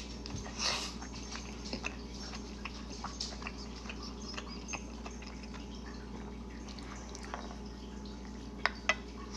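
Close-miked mouth sounds of someone chewing spicy Buldak ramen noodles: soft, scattered wet clicks and smacks, with two sharper clicks near the end.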